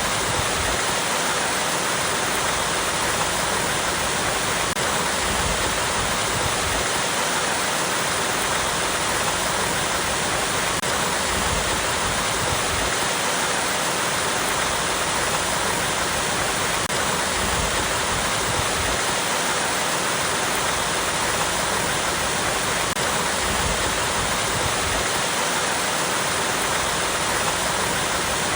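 Small waterfall pouring over rocks: a steady, even rush of falling water, with a gentle low swell that rises and falls every few seconds.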